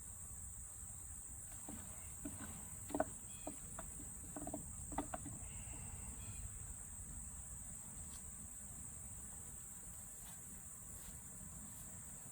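Faint, steady high-pitched insect chirring, crickets, with a low rumble underneath. Between about one and a half and five seconds in come a few short, light knocks and scrapes as a wooden hive frame is worked out of the hive.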